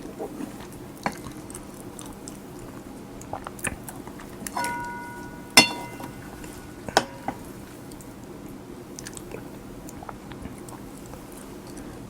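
Close-miked chewing of kimchi fried rice with egg and cheese. A few sharp clicks cut through, and about halfway a metal spoon clinks against the dish with a short ring.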